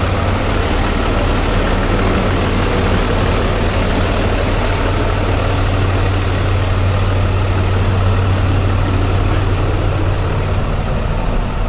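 Box truck engine running, a loud, steady low drone.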